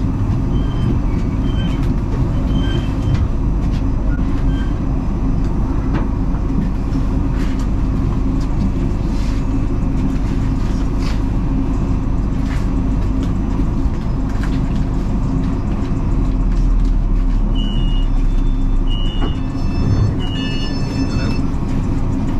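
Passenger train running along the track: a steady rumble of wheels on rails with occasional clicks. A few short high-pitched tones sound near the end.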